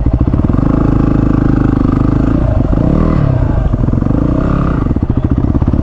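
Single-cylinder dual sport motorcycle engine running under way on a rough dirt track, its revs dipping and picking up again about halfway through, with clatter from the bike over the bumpy ground.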